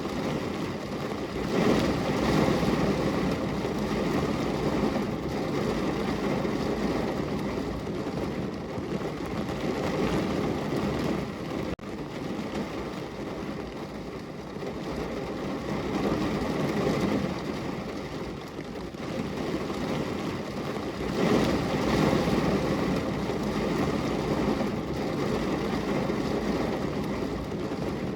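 Heavy rain falling, a dense, even hiss that swells louder shortly after the start and again about three-quarters of the way through, with one momentary break near the middle.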